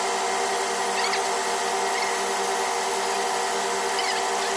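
A steady machine-like drone: several held tones over a constant hiss, not changing in level, with a few faint high chirps now and then.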